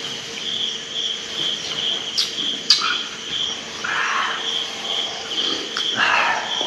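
Insects chirping in a steady pulsing trill, about two pulses a second, with two sharp clicks a little over two seconds in and brief rustling later.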